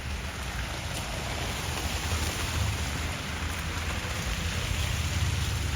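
Traffic on a wet, snowy street: an even hiss of tyres with a low engine rumble underneath, slowly growing louder.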